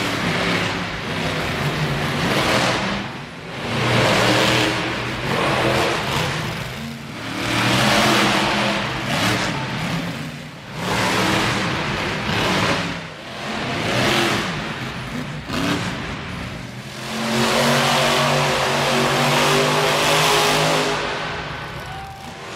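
Monster truck engine revving hard in repeated surges, each climbing and dropping over a second or two, then held at high revs for several seconds near the end.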